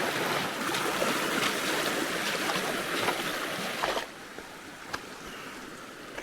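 River water rushing over rocks in a steady roar that drops sharply about four seconds in to a quieter flow, with a few light clicks over the quieter part.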